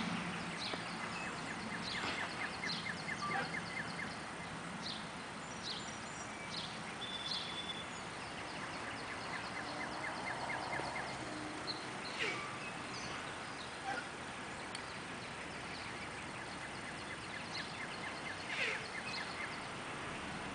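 Outdoor ambience of songbirds chirping, with short high calls scattered throughout and a rapid trill in the first few seconds, over a steady faint low hum.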